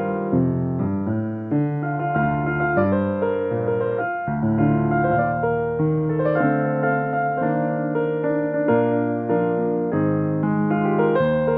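Solo piano playing slow, sustained chords and melody.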